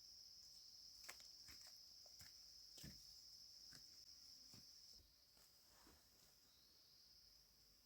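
Faint, steady high chirring of insects, quieter about two-thirds of the way through, with a few soft scattered knocks.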